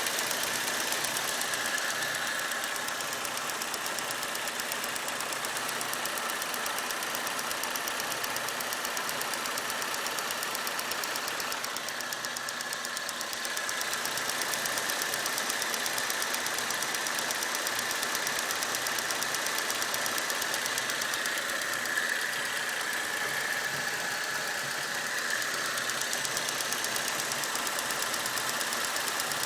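Holden VE Commodore SV6's 3.6-litre LY7 V6 running steadily with a rapid, even ticking knock, which the owner asks about as possible engine knocking. A thin, steady whine sits under it.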